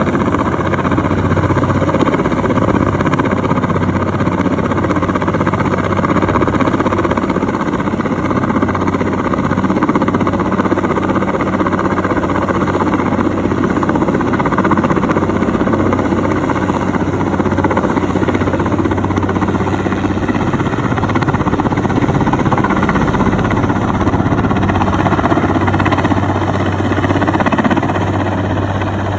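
Helicopter running steadily close by, a constant engine and rotor drone with a low hum.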